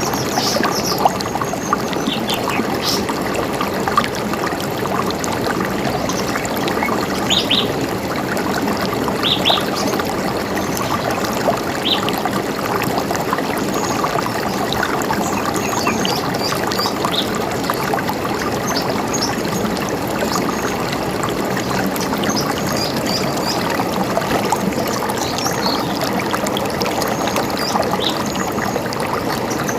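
A river running with a steady rush of water, and brief high bird chirps scattered over it.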